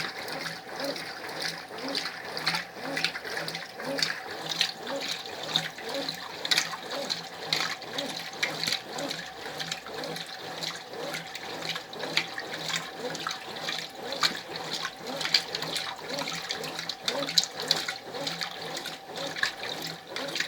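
Brastemp Ative 11 kg top-loading washing machine agitating during the rinse, water sloshing in the drum in a steady rhythm over a faint steady motor hum.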